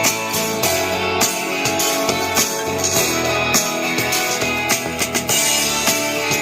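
Instrumental music with guitar and a steady drum beat, played through the Anker Soundcore Ace A0, a 2.5-watt pocket-sized Bluetooth speaker, with little deep bass.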